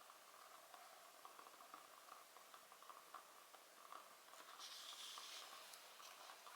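Faint crackling of a wood fire in a fireplace: soft scattered pops and ticks, with a brief hiss about five seconds in.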